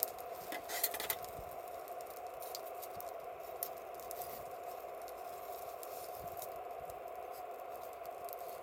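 Wood campfire crackling and popping in irregular sharp clicks, a quick cluster of them about a second in, over a steady hiss.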